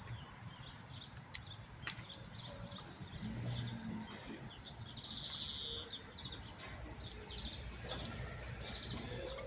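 Birds chirping with many short, high calls over faint outdoor background noise, with a brief buzzy call about five seconds in.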